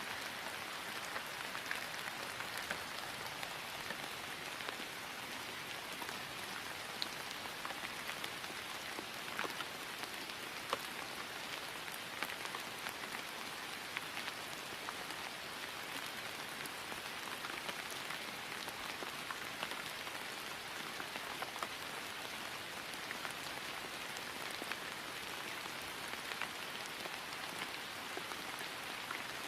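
Steady rain falling on grass: an even patter with many individual drops ticking throughout.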